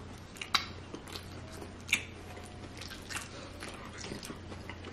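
Close-miked eating: chewing with a few sharp crunches, the three loudest about a second and a bit apart.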